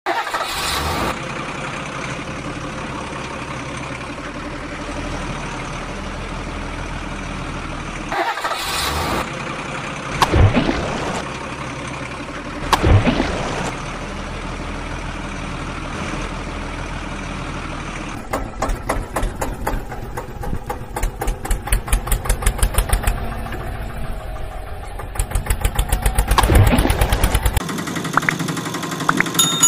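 A motor engine running steadily, with two brief swells in level about ten and thirteen seconds in. From about eighteen seconds it changes to a fast, even chugging that grows louder, then cuts off shortly before the end.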